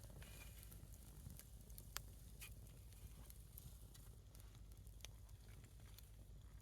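A single log of firewood burning faintly, with a soft hiss and a few sharp crackling pops, the sharpest about two seconds in.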